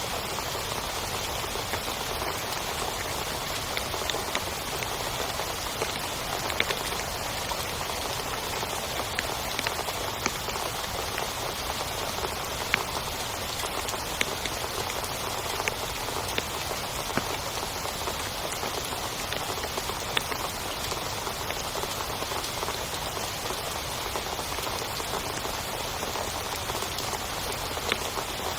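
Heavy rain falling steadily, a dense hiss with many sharper individual drop impacts ticking through it.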